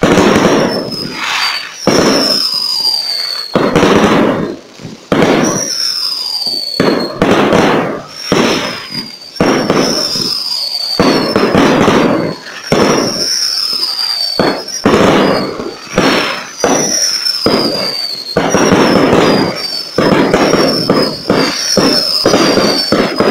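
Fireworks display: a rapid, continuous string of loud bangs from bursting aerial shells, about one a second, with crackling and short high whistles falling in pitch between them.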